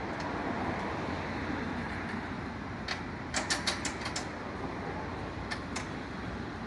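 Steady vehicle engine and traffic noise, with a quick run of sharp clicks about three seconds in and two more clicks near the end.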